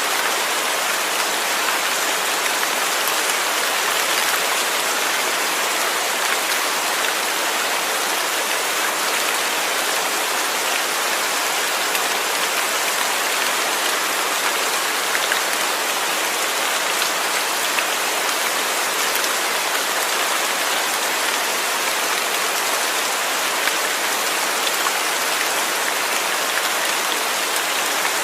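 Steady, even rain falling, a constant hiss of many drops with faint individual patters.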